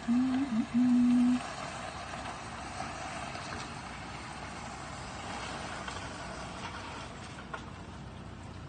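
A short, loud pure tone that steps up and down in pitch for the first second and a half, then a steady hiss of city background noise with distant traffic.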